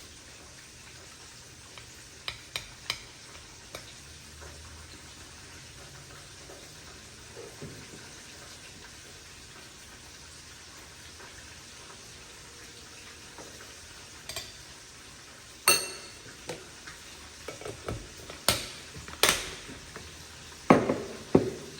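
Cooking sounds: utensils clinking and clattering against a pan or pot over a steady faint hiss, with a few light clicks early and louder clatters in the last few seconds.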